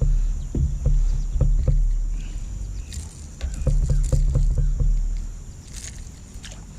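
Handling noise from landing a hooked bass beside a kayak: knocks and clicks against the boat and short splashes of water over a heavy, uneven low rumble on the microphone.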